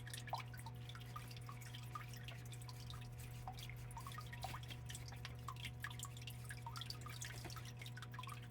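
Water from a small biotope waterfall dripping and trickling in many quick, irregular drops, over a steady low hum.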